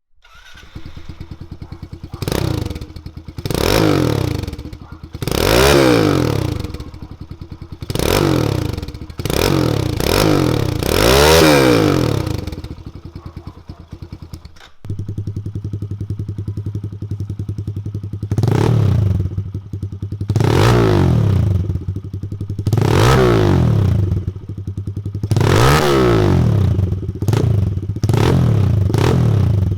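Kawasaki KLX110L's small single-cylinder four-stroke engine idling and blipped to higher revs six times, first through the stock exhaust. After a short cut about halfway it runs again through an FMF Factory 4.1 exhaust, idling louder with a stronger low note, and is blipped five more times.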